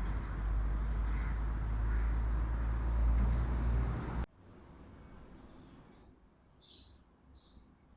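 A steady low rumbling noise that cuts off abruptly about four seconds in, followed by a few short, high bird calls near the end.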